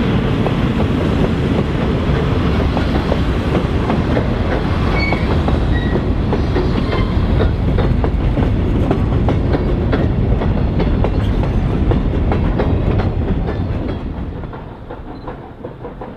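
Train rolling past, its wheels clicking over the rail joints, with a steady rumble. The sound fades away near the end.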